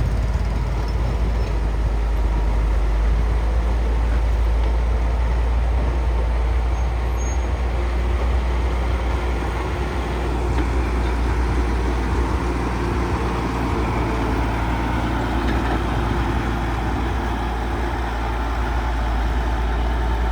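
Heavy diesel engine of construction machinery running steadily with a deep, even rumble.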